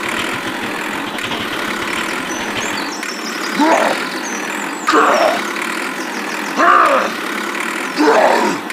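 Engine running steadily. From about halfway in, short cries that rise and fall in pitch come about every second and a half, four in all.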